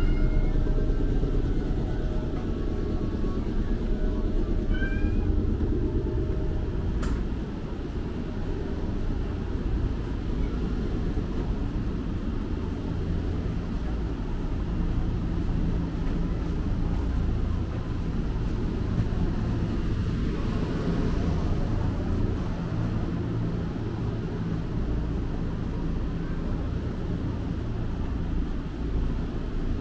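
Steady low rumble and hum inside an electric train car. A few short cat meows come from the train's sound effects in the first five seconds, and there is one sharp click about seven seconds in.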